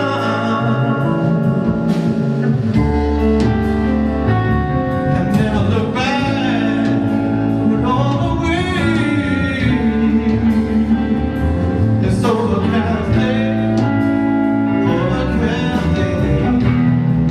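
Live blues-rock band playing: electric guitar, bass guitar and drums, with a sung vocal.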